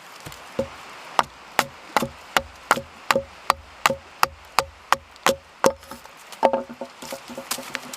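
A tool striking wood in quick, regular blows, about three a second, as in chopping, followed near the end by a run of lighter, quicker knocks.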